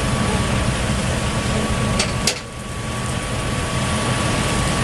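Heavy vehicle engine running, a steady low rumble under a rushing noise with a thin steady whine. There are two sharp clicks about two seconds in, and then the sound dips briefly before coming back.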